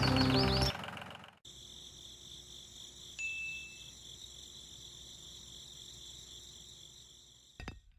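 Background music cuts off about a second in, leaving a faint, steady, high-pitched chirring like an insect chorus, with one short whistle-like tone near the middle.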